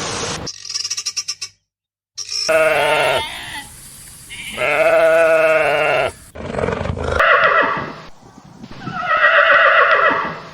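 Farm animals calling in a run of separate clips joined by abrupt cuts: four long, pitched cries, the loudest about three and five seconds in.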